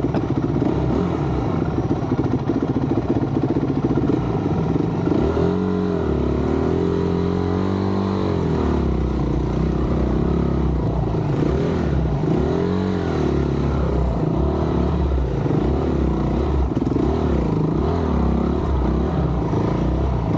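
Honda dirt bike engine being ridden, revving up and down with the throttle so its pitch rises and falls again and again.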